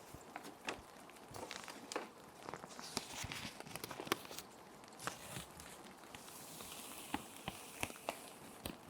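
Plastic sheet protectors crinkling and crackling in irregular sharp bursts as paper sheets are handled and slid into them, with a longer sliding swish partway through. A steady soft rain ambience runs underneath.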